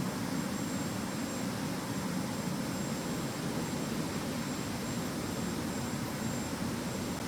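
Steady noise of a jet airliner's engines and airflow, with a thin high whine above it.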